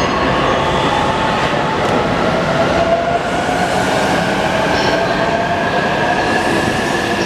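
E259 series Narita Express electric train pulling away, the whine of its motors rising slowly and steadily in pitch as it gathers speed, over the running noise of wheels on rail.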